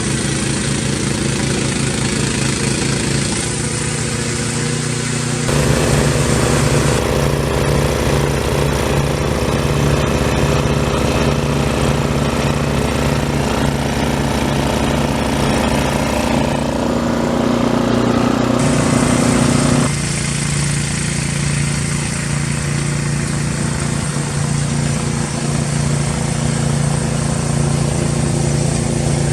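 Snow blower's small petrol engine running steadily, with a pitched hum. The sound shifts abruptly a few times, louder about five seconds in and dropping back about twenty seconds in.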